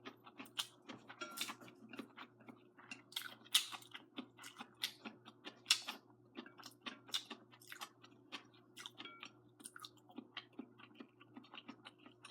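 A person chewing a mouthful of braised noodles with string beans close to the microphone: wet mouth clicks and smacks at an irregular pace, over a faint steady hum.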